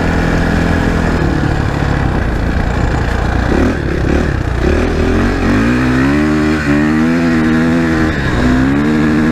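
Suzuki RM-Z 450 dirt bike's single-cylinder four-stroke engine running under way. It holds a steady note at first, then about halfway through the pitch climbs and rises and falls with the throttle, easing off briefly near the end.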